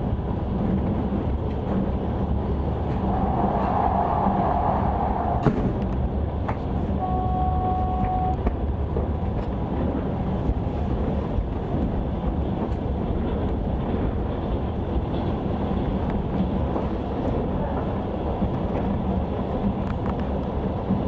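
Passenger train running at speed, heard from inside a carriage: a steady rumble of wheels on the rails. A sharp click comes about five seconds in, and a brief steady tone follows a couple of seconds later.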